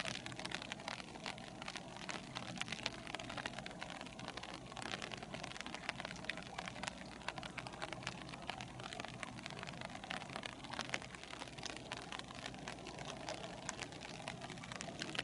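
Rain falling steadily: many small, irregular drop impacts over a constant hiss, with a low steady hum underneath.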